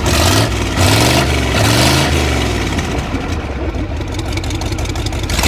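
An engine running and revving up and down several times in quick swells, then settling to steadier running.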